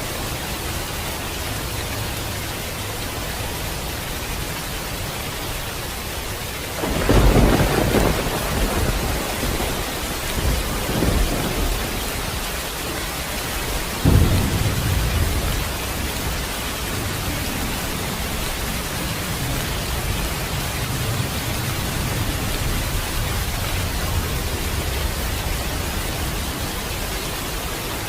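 Steady heavy rain hissing, with a crack of thunder about seven seconds in that rolls on for several seconds, and a second sharp thunderclap about fourteen seconds in followed by a low rumble under the rain.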